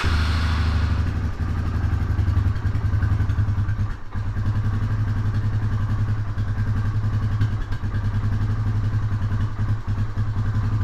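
Honda Fourtrax 300 ATV's single-cylinder four-stroke engine idling steadily, with a brief dip about four seconds in. The idle is set low, so low that it seems on the verge of stalling.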